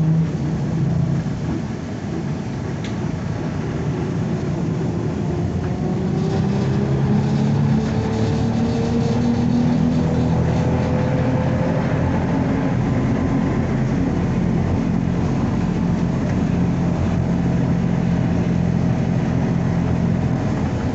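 ZiU-9 trolleybus running, heard from inside: its traction motor whine rises in pitch for several seconds as it gathers speed, then runs steady, over a low hum and road noise.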